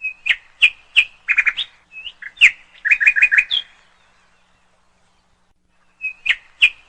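Songbird chirping: a phrase of sharp chirps and quick trilled notes lasting about three and a half seconds, then a pause, and the same phrase starting again near the end.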